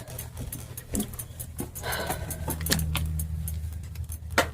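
Keys jangling with scattered clicks and knocks from handling a door and bicycle, over a low steady hum.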